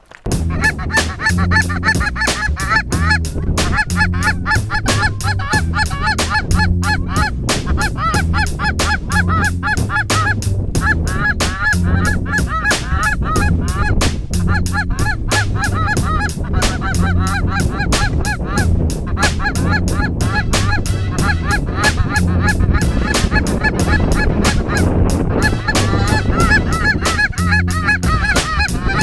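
Many geese honking continuously, mixed with a music track that has a steady beat and a bass line. Both come in suddenly at the start.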